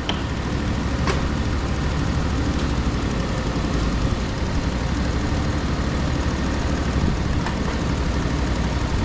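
An engine running steadily at an even speed, low and constant, with no sawing cut heard.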